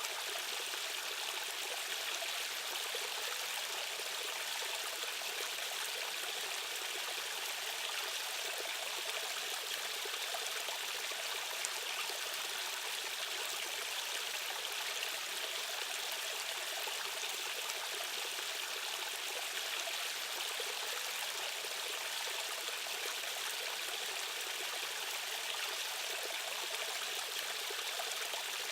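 Rushing stream current: a steady, even rush of flowing water with little low rumble, unchanging throughout.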